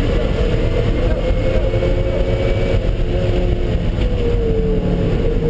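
Car engine running steadily at speed on a track lap over a constant low road rumble, its note wavering and dropping slightly about four seconds in.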